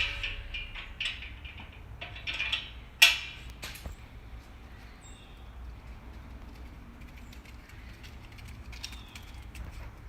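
A metal latch being worked: a run of clicks and rattles, with two louder sharp clicks about three seconds in, then a few faint clicks.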